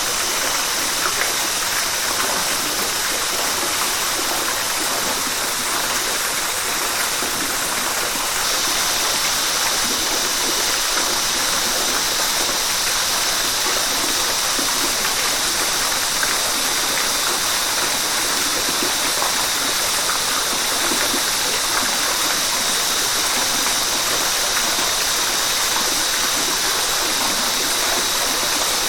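River water flowing in a steady rush, its high hiss brightening slightly about eight seconds in.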